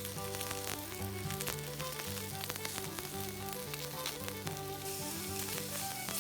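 Steady sizzling with many sharp crackles, under background music with a stepping melody.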